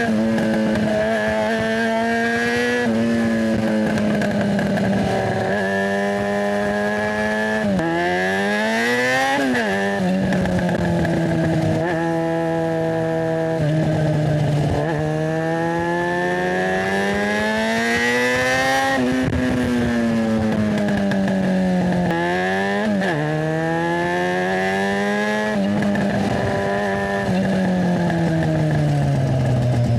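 Yamaha FZ6's inline-four engine through a GPR Ghost aftermarket exhaust, heard from on the bike: it pulls through the gears again and again, its pitch climbing and then dropping at each shift. Near the end the pitch falls steadily as the bike slows.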